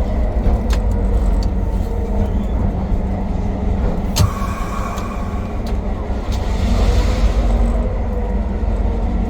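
Diesel-electric locomotive engine running steadily at a low throttle notch (notch 2) while the locomotive creeps along, a continuous low rumble. A sharp knock comes about four seconds in, followed by a faint squeal lasting about a second.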